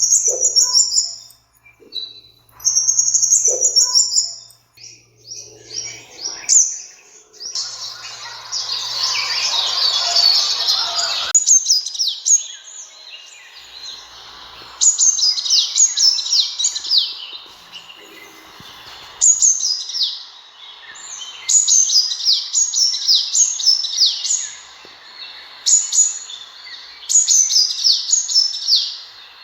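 Sunbird calls: high, thin chirps and short trills, then a dense burst of chatter about eight seconds in, followed by repeated quick phrases of rapidly falling notes through the second half.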